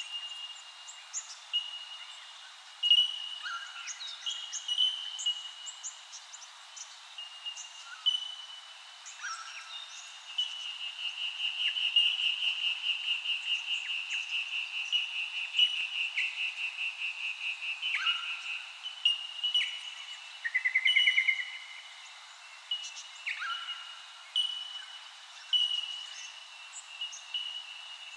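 Birds calling: many short chirps and whistles overlapping, with a long, fast-pulsing trill starting about ten seconds in and lasting some eight seconds, and a shorter rapid trill a little later.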